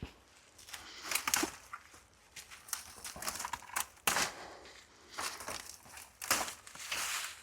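Irregular scrapes, rustles and sharp clicks of hands-on clearing work, coming in short bursts several times a second at some moments and pausing at others.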